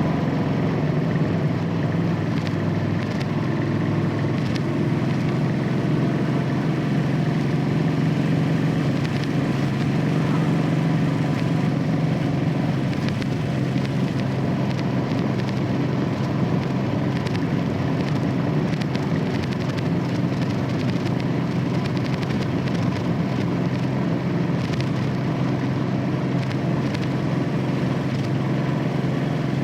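Royal Enfield Classic 500's single-cylinder engine running through its stock exhaust at a steady cruise, its pitch holding level.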